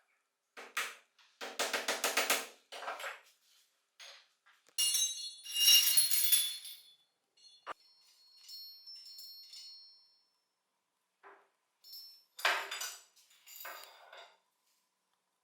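Metal lamp parts clinking and rattling in several short bursts, some of them ringing briefly. The loudest bursts come about two seconds in and again about six seconds in.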